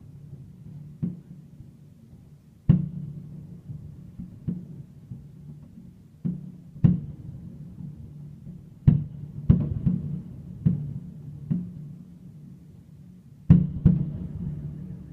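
Fireworks shells bursting overhead: irregular deep booms, each followed by a rolling echo, about a dozen in all, with some coming in quick pairs near the middle and just before the end.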